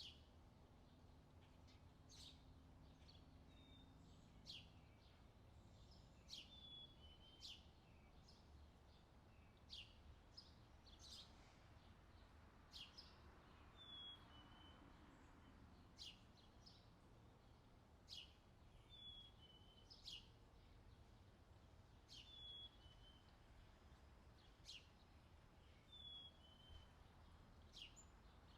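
Faint birdsong: short, sharp chirps repeating every second or two, some with a brief falling note, over a faint low steady background rumble.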